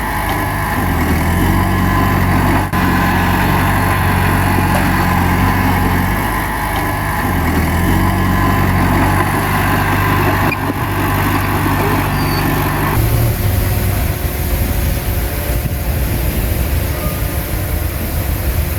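Bulldozer's diesel engine running under changing load, its pitch rising and falling. About 13 seconds in, the steady engine note drops away and leaves a rougher low rumble.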